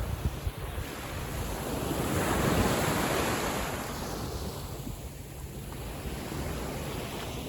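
Gentle sea waves washing on a beach, one swell rising and breaking about two and a half seconds in, with wind rumbling on the microphone.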